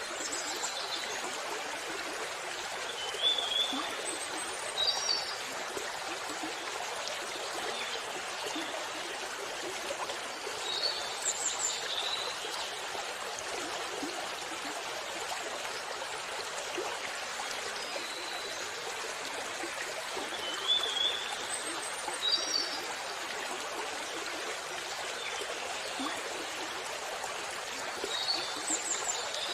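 Steady rush of running water from a waterfall, with short high bird chirps every few seconds.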